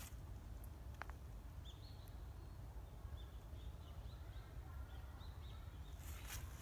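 A small bird calling faintly: a run of short, high chirps, a few a second, over a low steady rumble, with one sharp click about a second in.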